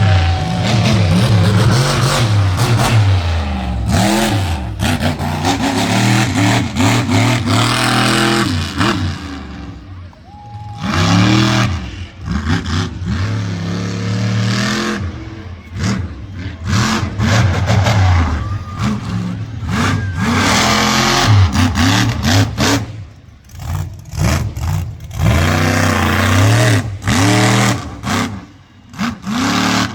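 Demolition derby vehicles' engines revving up and down over and over, with frequent sharp bangs of impacts in between.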